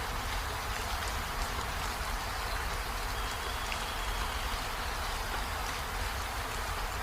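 Steady rainfall, an even hiss of drops with scattered light ticks of single drops landing.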